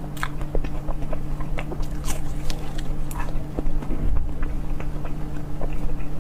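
Close-miked ASMR eating: a person biting and chewing food, with many quick irregular wet clicks and smacks over a steady low hum.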